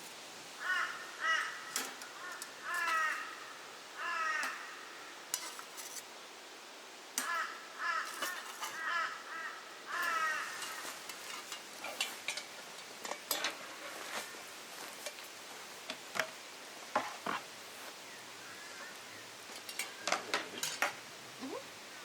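Crows cawing in several short series of harsh calls over the first ten seconds or so, then scattered sharp clicks and clinks like utensils or cookware being handled.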